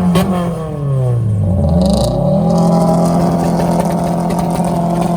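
A car engine being revved: held at high revs, then let go so the revs fall away over about two seconds, then blipped quickly back up about two and a half seconds in and held steady at high revs.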